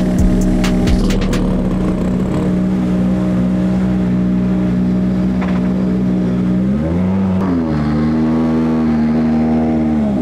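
Rally car engine running at a steady fast idle, its pitch rising and falling back about seven seconds in, then holding a little higher with another brief dip near the end. A few sharp clicks sound in the first second or so.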